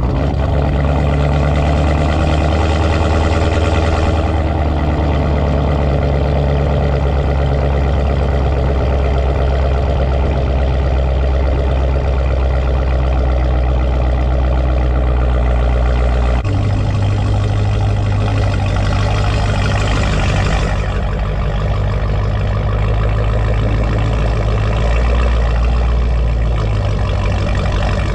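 Car engine running steadily with a deep, even drone; its pitch shifts abruptly about sixteen seconds in and then holds again.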